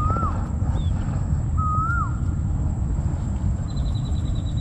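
A bird whistling the same call twice, about a second and a half apart: a level note that swoops up and then drops sharply. A dense steady low rumble runs beneath it, and a short fast ticking trill comes near the end.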